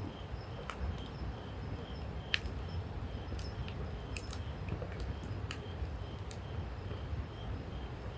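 Wood campfire of logs and branches burning, crackling with scattered sharp pops, the loudest about two seconds in, over a low steady rumble.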